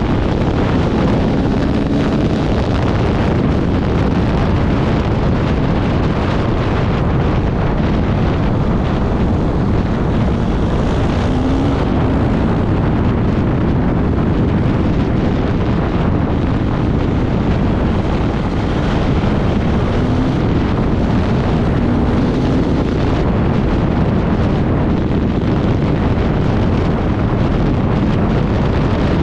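Off-road motorcycle engine running hard at speed, its pitch rising and falling now and then, almost buried under heavy wind buffeting on the microphone.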